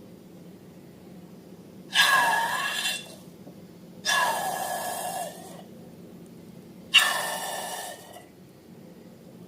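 Air rushing out of a balloon's neck in three bursts of about a second each, each starting sharply with a high squealing tone and then fading.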